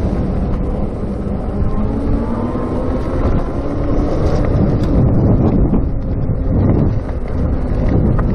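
Wind buffeting the microphone over the rumble of a RadMini electric bicycle riding along, a loud, steady rushing noise that swells a little past the middle.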